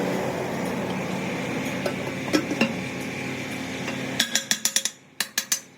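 A steady mechanical hum, then about four seconds in a quick run of sharp metallic strikes on steel, several a second, with a brief pause near the end.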